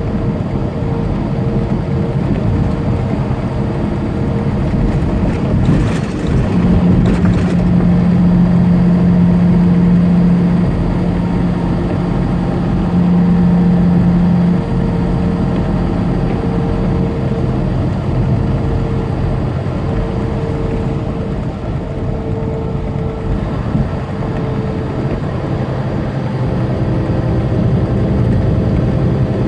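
Tractor-trailer's diesel engine and tyre noise on wet interstate pavement, heard from inside the cab while cruising. The engine's low drone grows louder for several seconds in the middle.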